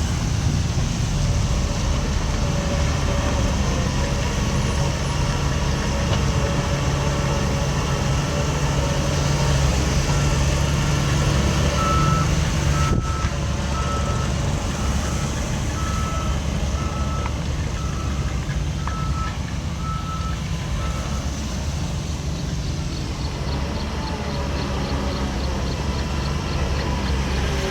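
Heavy diesel machinery running steadily while a reversing alarm beeps about once a second, growing louder and then stopping about three-quarters of the way through.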